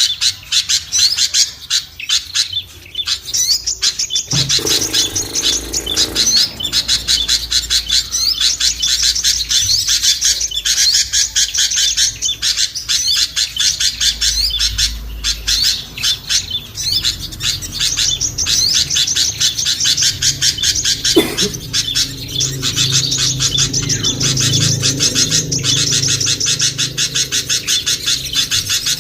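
A noisy bird-lure mix of many small songbirds chirping and calling rapidly and without pause. A lower, pulsing call sounds underneath from about four seconds in.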